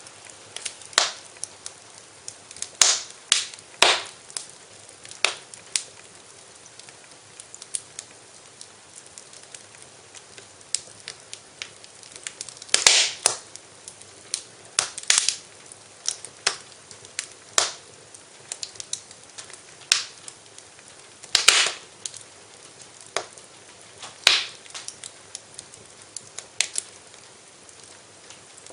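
Wood fire crackling in a fireplace: irregular sharp pops and snaps over a faint steady hiss, with louder pops about 13 and 21 seconds in.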